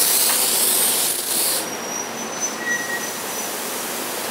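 SEPTA Silverliner IV electric multiple-unit cars rolling slowly past as the train pulls into the station. A loud high hiss of air runs for the first second and a half and cuts off, then a faint high metallic squeal sounds under the steady rolling rumble.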